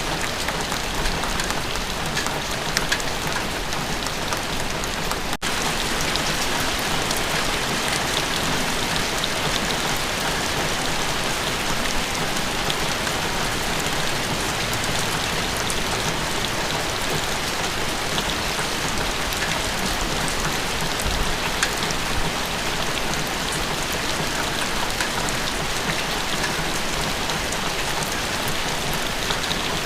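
Steady rain falling: a dense, even hiss full of small drop ticks, with a momentary break about five seconds in.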